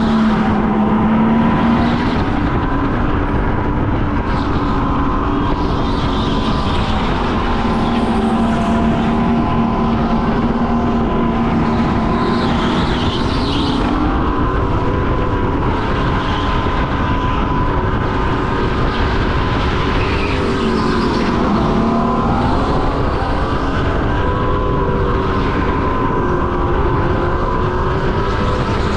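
Go-kart engine running at race speed, its pitch rising and falling through corners and straights, over a steady rushing noise.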